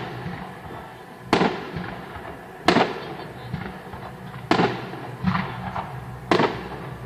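Fireworks display: four loud shell bursts about one and a half to two seconds apart, each followed by an echoing tail, with fainter pops and crackles in between.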